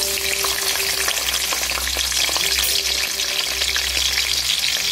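Sliced red onion sizzling loudly and steadily in hot cooking oil in a metal pan, with a spatula stirring it and lightly scraping the pan.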